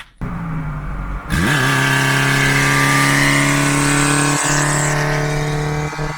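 Old Dacia car's engine revved hard about a second in: the note rises quickly, then holds at a steady high pitch as the car pulls away, with a loud rushing hiss over it.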